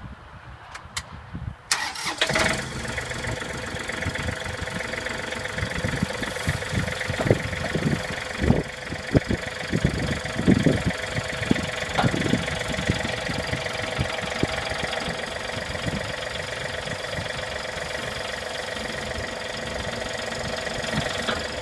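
A John Deere compact tractor's diesel engine is started about two seconds in, after a few faint clicks, and then idles steadily. Between about 6 and 12 seconds a run of clunks and knocks sounds over the idle.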